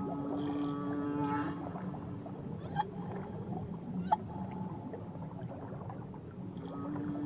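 Whale song: a long, drawn-out pitched call rich in overtones for the first second and a half, two short sharp clicks in the middle, and another call starting near the end.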